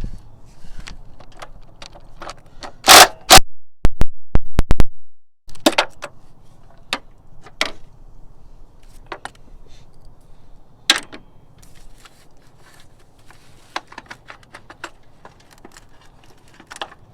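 Metal hand tools clinking and knocking against the battery hold-down hardware in the engine bay as a 10mm socket on an extension works the hold-down screw loose. There is a loud cluster of knocks about three to five seconds in, then scattered single clicks.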